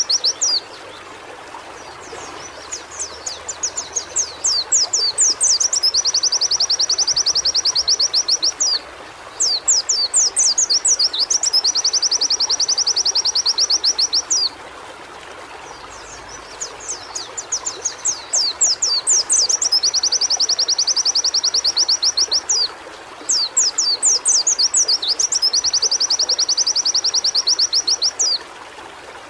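White-eye (pleci) singing in long, very rapid high-pitched phrases. Each phrase opens with quick sweeping notes and runs into a fast, even trill lasting several seconds, with short pauses between phrases. A steady faint hiss sits underneath.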